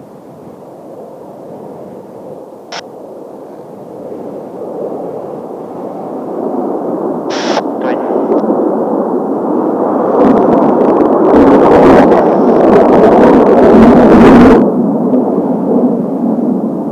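Kawasaki T-4 jet trainers flying past. The jet noise builds over about ten seconds to a loud peak, then drops off suddenly about fourteen seconds in.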